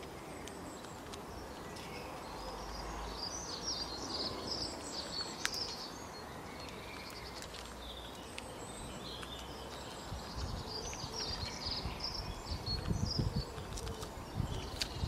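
Small birds chirping and twittering in the background over a steady outdoor hiss. From about two-thirds of the way through, low rustles and knocks come in and become the loudest sound.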